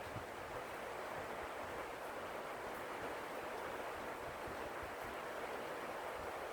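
Steady rush of tropical-storm wind and rain.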